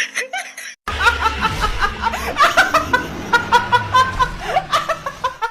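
Laughter in quick, repeated short bursts, starting again after a brief cut just before a second in.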